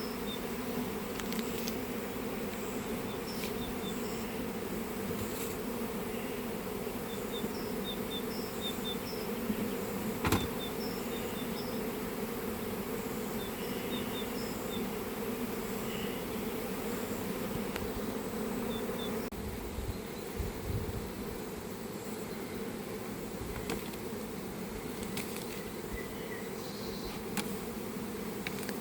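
Honeybees buzzing in a steady, dense hum around an open hive, with one sharp knock about ten seconds in.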